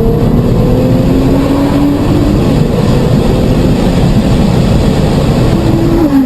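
Car engine running hard under acceleration, its pitch climbing slowly in long rises, with a break between them as it goes up through the gears.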